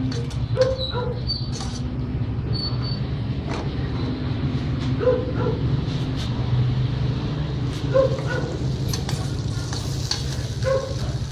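Chicken cooking in a pan in soy sauce while being stirred, over a steady low hum, with a few short high-pitched sounds about every three seconds.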